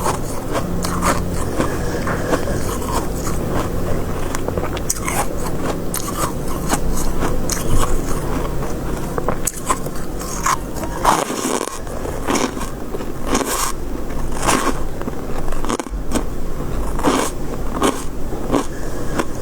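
Soft shaved freezer-frost ice being bitten and crunched close to the microphone, in irregular crisp crunches.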